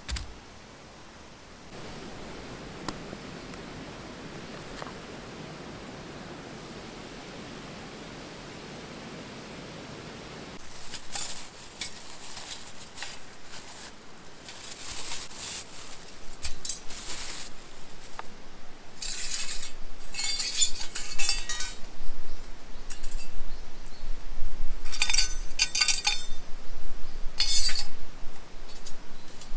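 Metal camp cookware clinking and rattling as it is handled, a run of irregular light clinks that grows busier and louder through the second half. Before that, a steady soft hiss.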